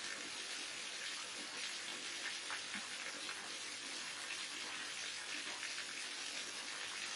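Waterfall: a steady, even rush of falling water with fine, constant splashing and no change in level.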